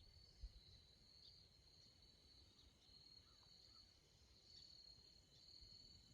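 Near silence: a faint, steady high-pitched trilling chorus of small creatures, with a low rumble underneath and a small thump about half a second in.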